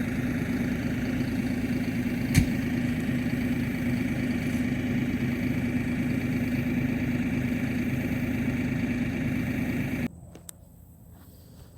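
Engine running steadily at a constant speed, most likely the machine holding tension on the rope pulling on the tree, with one sharp click about two seconds in. The engine sound cuts off abruptly near the end.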